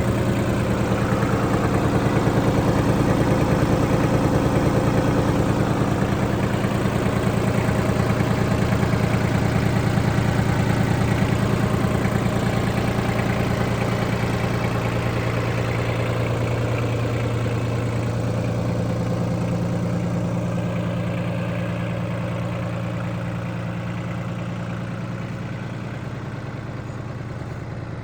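Mitsubishi MT200 compact tractor's 20 hp three-cylinder diesel engine running steadily, gradually getting quieter over the second half.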